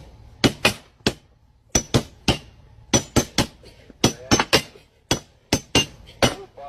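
An irregular series of about twenty sharp taps or knocks, several with a brief high ring.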